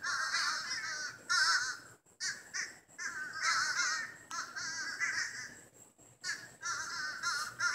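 A noisy flock of birds calling back and forth: overlapping wavering, chattering calls in runs of about a second with short breaks between them.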